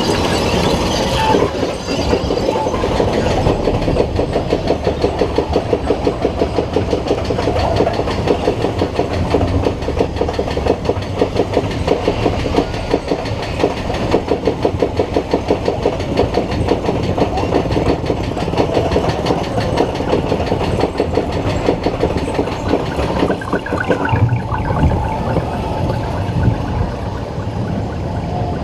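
Primeval Whirl spinning roller coaster car running on its track, with a rapid, steady, rhythmic clacking and rattling.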